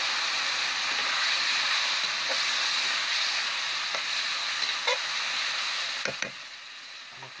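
Spice paste and potatoes sizzling in hot oil in a karahi while being stirred and sautéed with a spatula, which knocks against the pan a few times. The sizzle eases off near the end.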